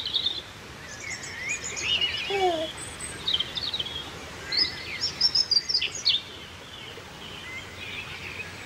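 Birds chirping and singing in a series of quick high chirps and trills, loudest a little past halfway, with one brief lower note sliding downward about two seconds in.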